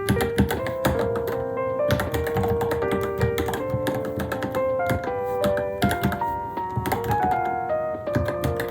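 Fast, irregular keystrokes typed on a Varmilo Minilo mechanical keyboard, several clicks a second, over background music with a steady melody.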